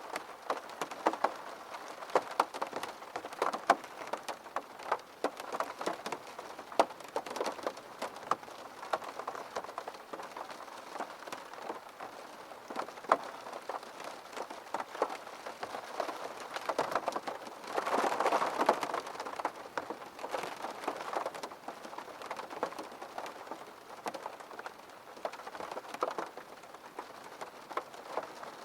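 Rain pattering steadily on window glass, a dense stream of individual drop ticks over a soft hiss. About two-thirds of the way through it swells briefly louder for about a second.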